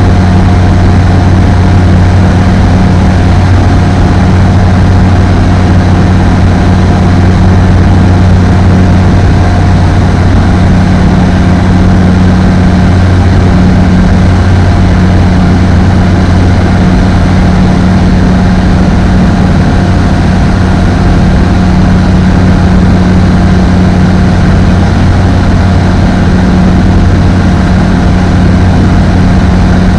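Apollo Fox ultralight aircraft's engine and propeller running at a constant pitch: a loud, steady drone with a thin steady whine above it.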